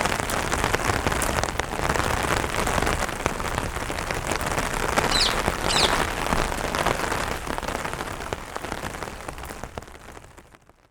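Steady rain on an umbrella, many drops tapping on the canopy. Two short bird chirps about halfway through, then the rain fades out at the end.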